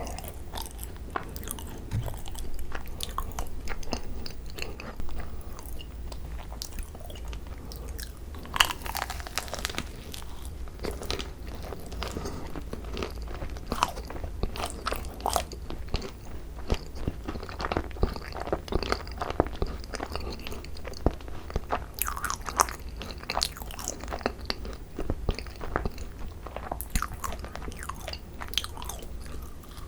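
Close-miked eating of a thick-filled macaron (ddungcaron): bites crunching through the crisp shell, then chewing the creamy filling, with many small crackles and mouth sounds throughout.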